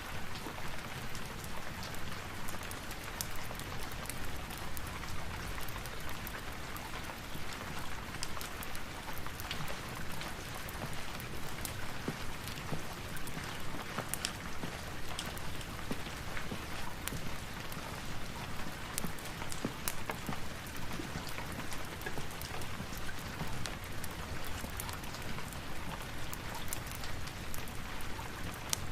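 Steady rain falling, an even hiss with many small, sharp clicks and pops scattered through it.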